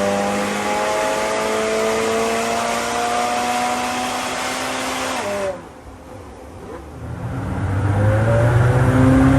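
McLaren 720S twin-turbo V8 with a Quicksilver catback exhaust pulling under throttle, its pitch climbing slowly. About five and a half seconds in it drops away abruptly, then comes back louder and deeper near the end.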